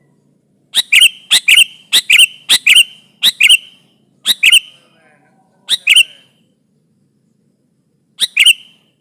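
Sooty-headed bulbul (kutilang) calling in sharp, loud paired chirps. A quick run lasts about three seconds, then single pairs come a second or two apart, the last near the end.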